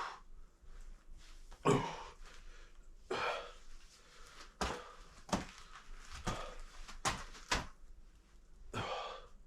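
A few breathy exhales, spread out, and a handful of short, sharp clicks and knocks in the middle of the stretch.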